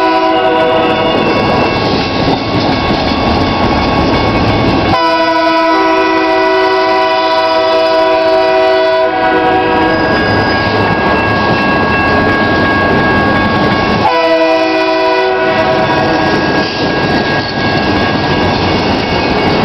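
Double-stack freight well cars rolling past with steady wheel-on-rail noise, while a locomotive's multi-note air horn sounds: one blast ends about a second in, a long blast of about four seconds starts about five seconds in, and a short blast comes near the two-thirds mark.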